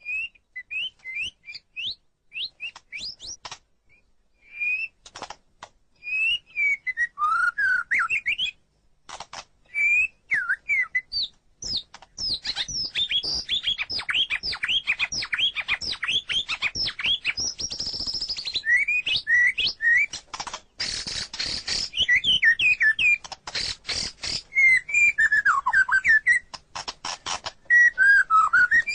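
White-rumped shama (murai batu) singing: a varied, rapid run of whistled notes sweeping up and down, mixed with harsh rattling notes. The song is broken at first and becomes a near-continuous stream about halfway through.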